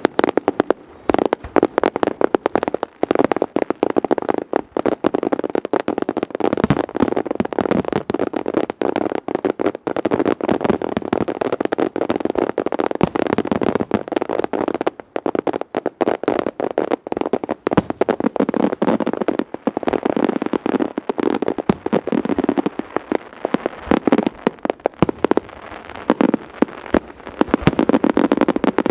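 Aerial fireworks going off in a dense, unbroken run of bangs and crackling bursts, many a second.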